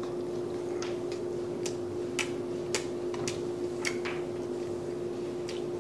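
A person chewing food close to the microphone: a series of irregular, sharp, wet mouth clicks, about eight in all, over a steady hum.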